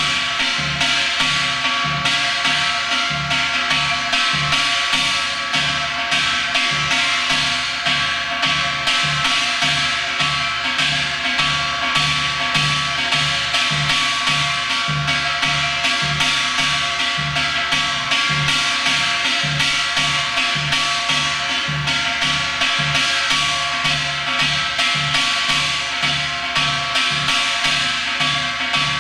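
Korean janggu, the hourglass drum, struck with sticks in a Gyeongsang-do gut jajinmori pattern played slowly: a steady, even run of drum strokes with regular deep beats.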